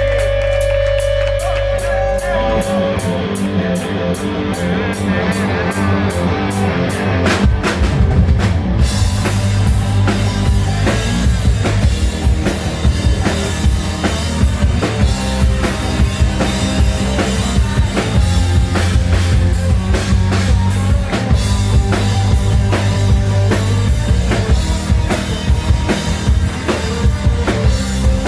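Hard rock band playing live. A held intro with a steady high ticking beat builds for the first few seconds, then the full band with drums comes in about nine seconds in.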